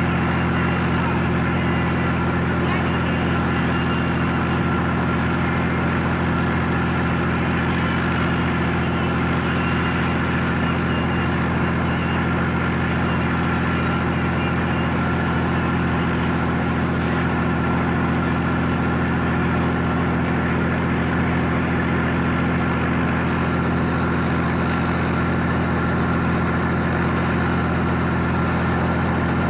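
Helicopter engine running steadily: a constant low drone with a high whine above it, unchanging in level.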